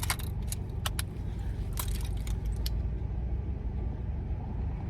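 A handful of sharp small clicks and rattles from handling a compact point-and-shoot film camera and its batteries, bunched in the first few seconds, over the low steady rumble of a car.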